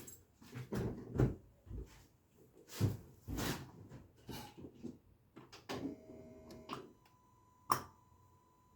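Irregular knocking and clicking from a Mazda with the ignition switched on. This is the new knock that the owner cannot explain. About six seconds in there is a short buzz, then a steady high electronic tone.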